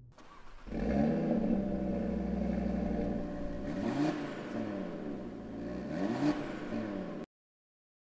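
Audi TT RS Roadster's turbocharged 2.5-litre five-cylinder engine starts up about a second in and settles to a fast idle. It is then blipped twice, the revs rising and falling. The sound cuts off suddenly near the end.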